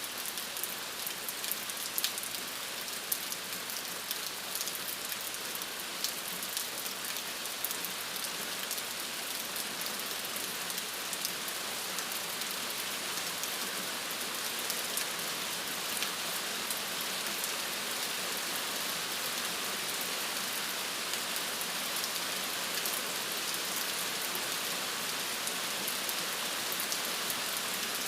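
Steady rain falling on a surface, an even hiss with many small drop ticks, a little more pattering in the first half.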